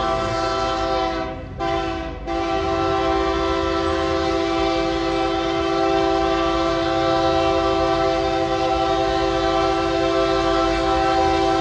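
Diesel freight locomotive's multi-chime air horn blowing several notes at once. It breaks off briefly twice in the first couple of seconds, then holds one long blast over the low rumble of the train.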